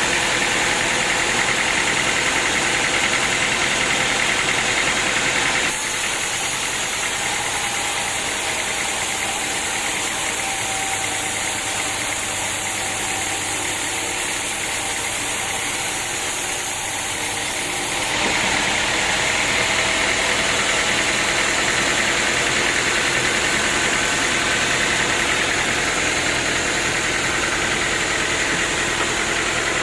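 Sawmill machinery running, a steady loud mechanical drone with hiss. About six seconds in the sound drops abruptly to slightly quieter and duller, then jumps back about eighteen seconds in.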